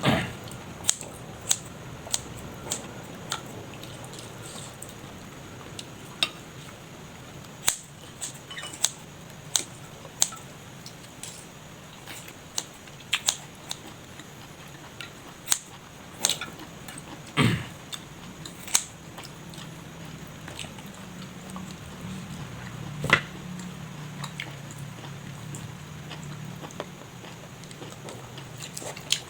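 A person chewing and biting food close to the microphone, with scattered sharp clicks and crunches throughout; the loudest comes about two-thirds of the way in.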